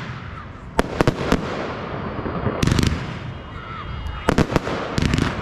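Fireworks display: shells bursting in sharp cracks, a few single cracks about a second in, then tight clusters near three seconds and again between four and five seconds, over a continuous low rumble.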